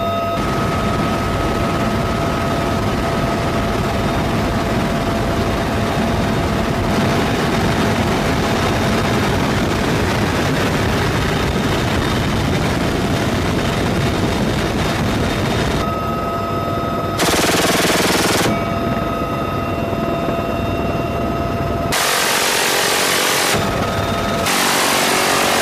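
M134 GAU-17 minigun firing from a UH-1Y Venom helicopter, over the helicopter's steady running noise and its tones. In the last third it fires three short bursts of one to two seconds each, with quieter pauses between them.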